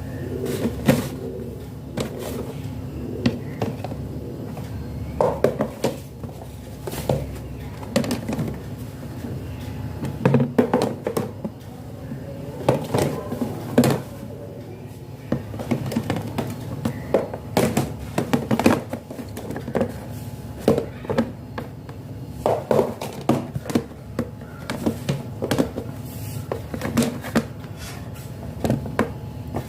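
Irregular knocks and light clatters of plastic storage containers and vegetables being handled and set down, over a steady low hum.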